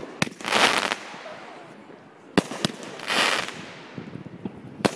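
A 500-gram consumer firework cake fires a shot about every two and a half seconds. Each shot is a sharp bang followed by about half a second of hissing crackle.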